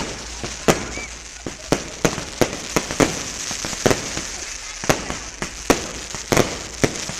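Fireworks going off in a quick, uneven series of sharp bangs, about two a second, over a steady hiss.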